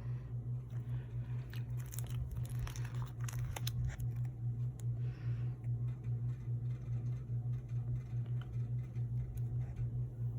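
Crinkling and clicking of collectible cards and their plastic packaging or sleeves being handled, clustered from about one and a half to four seconds in, with a short soft rustle about five seconds in, all over a steady low hum.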